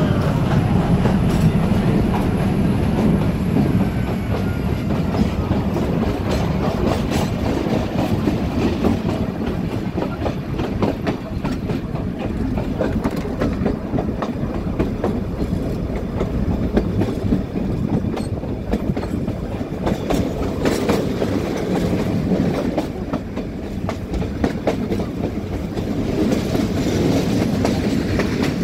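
Nilgiri Mountain Railway passenger train running along the track, heard from the carriage window: a continuous rumble with the clickety-clack and rattle of the wheels over the rails.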